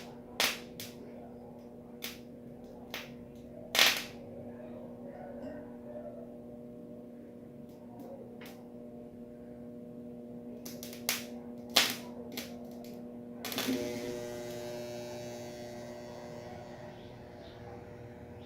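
Microwave oven transformer humming steadily, broken by several sharp electrical snaps of arcing as its leads make contact with the iron. A little past two-thirds in, the hum changes pitch and a crackling hiss sets in as the iron comes under load.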